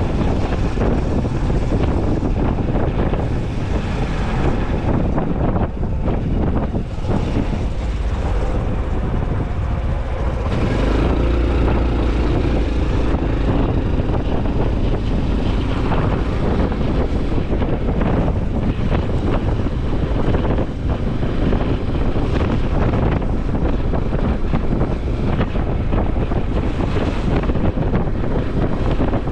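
Honda CT125 Hunter Cub's single-cylinder engine running while the motorcycle is ridden, with heavy wind noise on the microphone.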